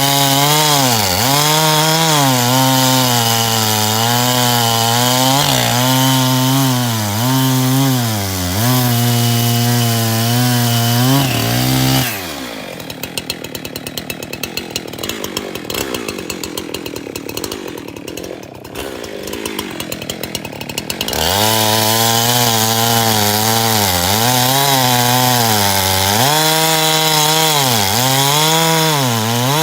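Two-stroke chainsaw cutting jarrah firewood, its engine pitch dipping and recovering every second or so as the chain bites. About twelve seconds in it drops to idle, a quieter rapid ticking, for around nine seconds, then revs up and cuts again.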